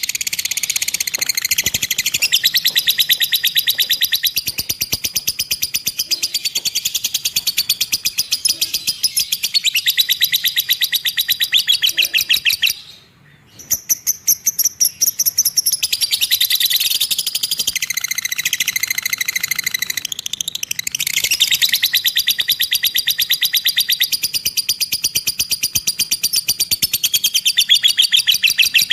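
Caged songbird singing long, rapid chattering trills of high, fast-repeated notes, with a brief pause about 13 seconds in.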